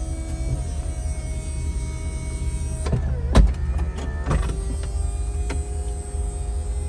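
2003 Chevrolet SSR's 5.3-litre V8 idling with a steady low rumble and a faint steady whine. A cluster of sharp clicks and one loud knock come about halfway through.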